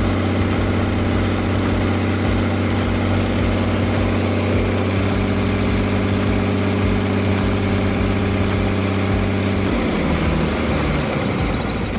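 Freshly overhauled Ashok Leyland H-series six-cylinder diesel bus engine idling steadily after its rebuild. About ten seconds in, its steady note breaks up.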